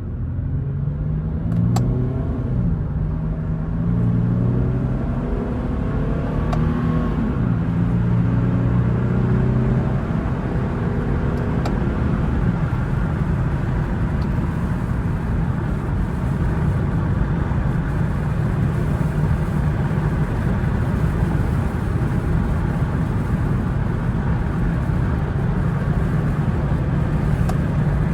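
Infiniti car's engine accelerating in sport mode, its pitch rising and dropping back at each of several gear changes over the first ten seconds. It then settles into a steady engine hum with road noise at cruising speed.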